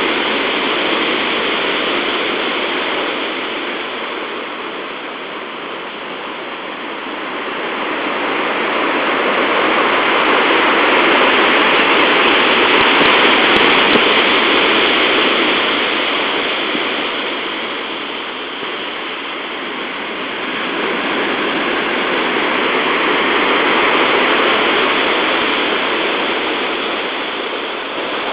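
Heavy typhoon surf breaking on a beach: a continuous rush of water noise that swells and eases in slow surges, three of them, several seconds each.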